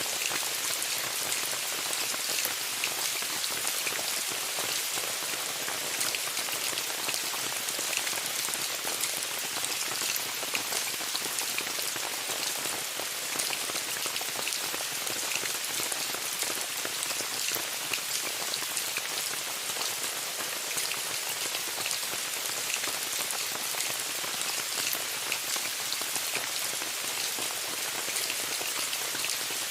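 Steady rain falling on a tent: an even hiss with a dense patter of individual drops.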